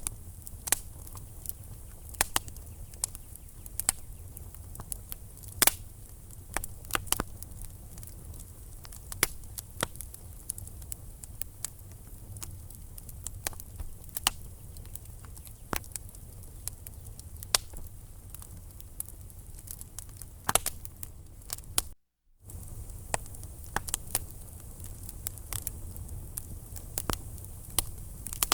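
Wood fire in a fireplace crackling and popping irregularly over a low, steady rumble of flame, with several louder snaps. The sound drops out completely for about half a second near the end.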